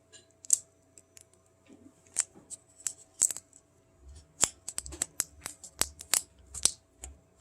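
Scattered sharp clicks and crackles of adhesive tape and paper cups being handled as a stretched rubber band is taped down to a paper-cup tab, with dull bumps against the table in the second half.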